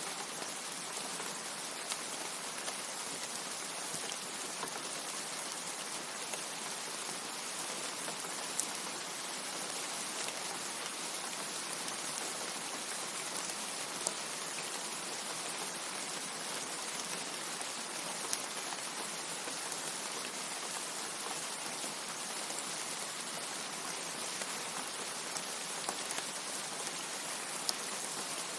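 Steady rain falling, an even hiss with scattered sharper drop taps every few seconds.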